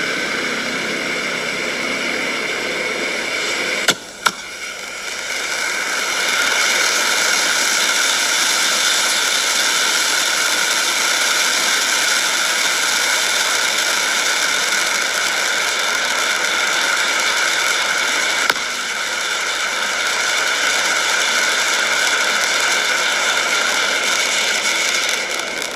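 Breakout firework fountain spraying with a loud, steady hiss. Two sharp cracks come about four seconds in, then the hiss dips and builds back brighter. A single crack comes about two-thirds of the way through, and the hiss dies away at the end.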